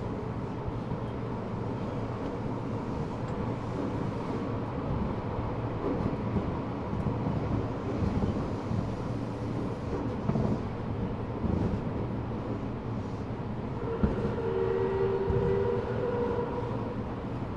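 Eidan 6000 series subway car running, heard from inside on the floor: a steady rumble of wheels on track. About 14 s in there is a sharp click, and the high-pitched tones of its Mitsubishi three-level VVVF inverter, carried over from a 7000 series car, come in for a few seconds.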